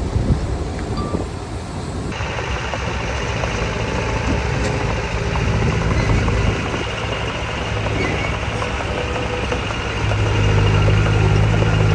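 Heavy earth-moving machinery engines running. The noise of the machinery steps up about two seconds in, and the deep engine drone gets louder from about ten seconds in as the engine works harder.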